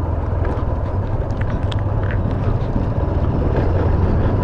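Motorcycle engine running steadily while riding, under a steady rushing noise.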